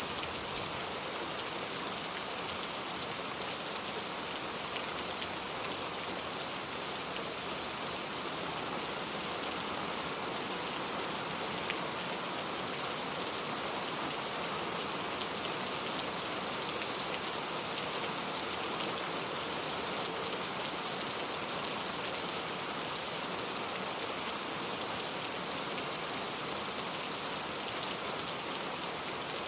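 Steady rain falling, a constant even hiss with scattered drop ticks.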